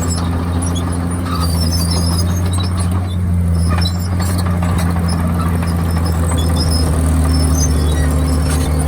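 Komatsu D51PX bulldozer's diesel engine running steadily, with scattered short, high metallic squeaks over the constant engine note.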